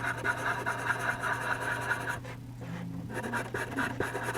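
Charcoal pencil scratching on charcoal paper in short repeated strokes, with a brief pause about two seconds in.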